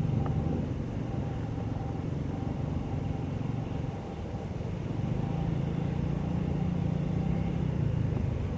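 Diesel locomotive engine running with a steady low rumble that builds a little from about five seconds in.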